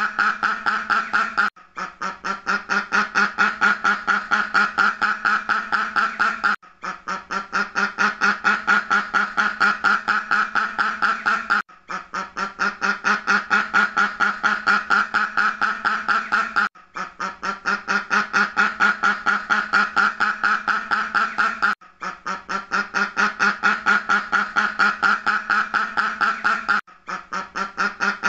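Duck quacking in a fast, unbroken run of quacks, a recorded loop that stops for a moment and starts again about every five seconds.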